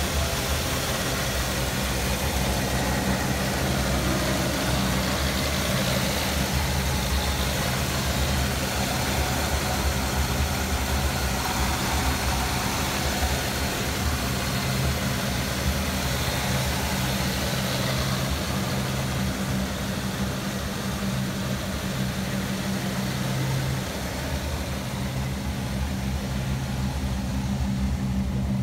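1955 Chevrolet Bel Air Nomad's Chevrolet engine, fitted with an Edelbrock 600 CFM carburetor and dual Flowmaster exhaust, idling steadily with its radiator fan turning.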